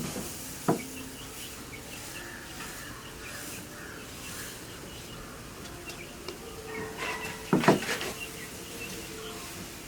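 Small birds chirping repeatedly in the background, with a sharp knock just under a second in and a louder cluster of knocks about seven and a half seconds in.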